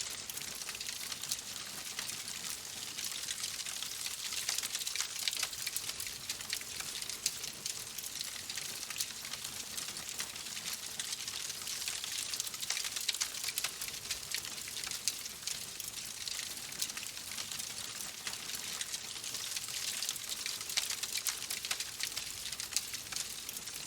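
Wood fire crackling steadily: a constant hiss with dense, irregular small pops and snaps.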